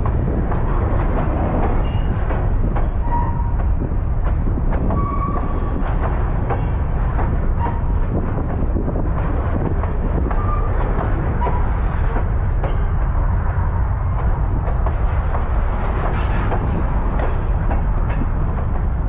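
Baldwin-Westinghouse steeplecab electric locomotive rolling with freight cars on the rails: a steady low rumble with many clicks and knocks from the wheels and cars, and a few short squeaks.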